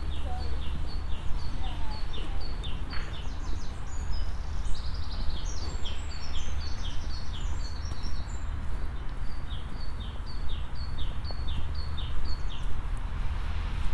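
Small songbirds singing outdoors: one bird repeats a short two-note phrase about three times a second for most of the time, while another adds a quicker, more varied song for a few seconds midway. A steady low rumble runs underneath.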